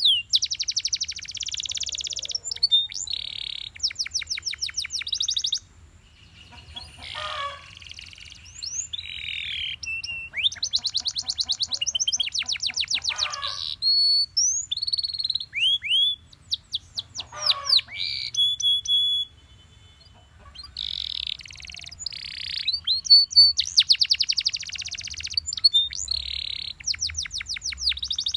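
Domestic canary singing a long song of rapid trills, runs of quick downward-sweeping notes and short held whistles, broken by brief pauses. A faint steady low hum lies underneath.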